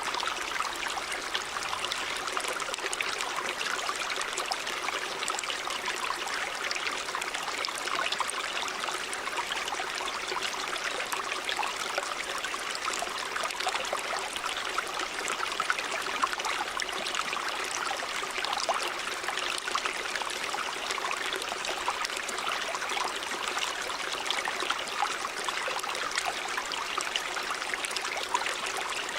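A shallow river or stream running over rocks: a steady rushing and babbling of water with many small splashes.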